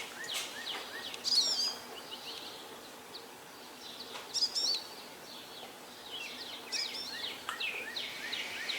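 Songbirds singing: a short phrase of quick, high whistled notes that slide up and down, repeating every few seconds, with scattered chirps between, over faint background hiss.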